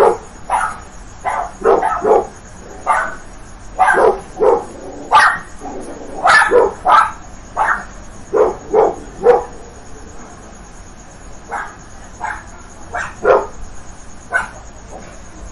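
Dog barking in a run of short, sharp barks, about two a second, thinning out and getting quieter after about ten seconds.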